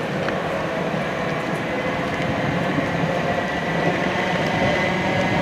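Electric train running through on the third-rail line, a steady rumble with a whine of several held tones from its traction motors, growing slightly louder near the end.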